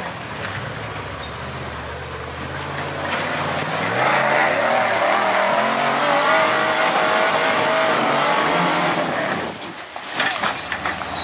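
Lifted 4x4 truck on 54-inch Bogger tires, its engine running, then revving harder and louder from about three to four seconds in and holding high before easing off near the end.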